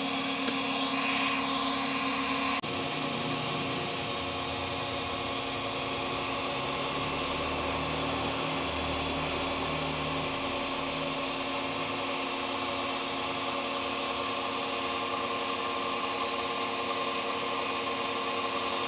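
A workshop machine's motor running with a steady hum, with a click about two and a half seconds in after which the hum changes.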